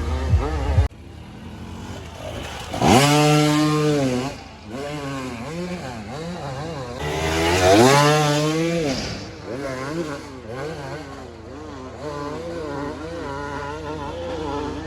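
Enduro dirt bike engines revving hard in rising bursts, loudest about three seconds in and again near eight seconds, then blipping and running unevenly. A thumping music beat cuts off abruptly within the first second.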